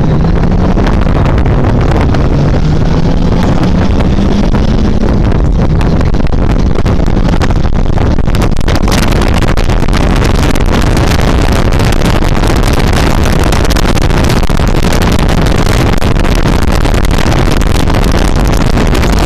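Motorcycle engine pulling up through the revs, its note rising over the first few seconds. From about eight seconds in, loud wind buffeting on the microphone swamps the engine as the bike gets up to speed.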